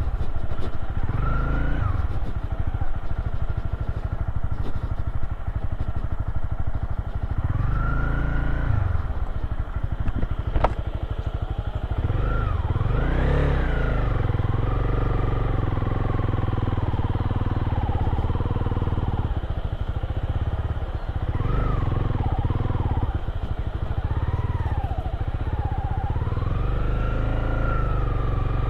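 Motorcycle engine running while riding a rough dirt trail, its revs rising and falling again and again over a constant low rumble. There is a sharp knock about ten seconds in.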